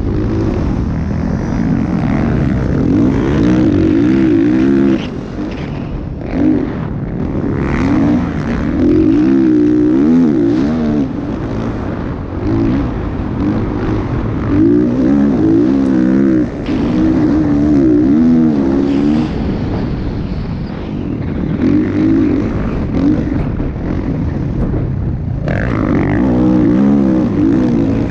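Motocross motorcycle engines revving, the pitch rising and falling over and over as the throttle is opened and closed.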